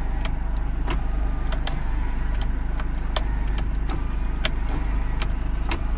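Car interior noise while driving: a steady low rumble with scattered small clicks.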